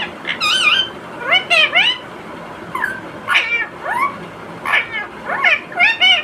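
Indian ringneck parakeet vocalizing in a string of short, high, nasal calls that bend up and down in pitch, about a dozen in a few seconds, close to talking or mimicry.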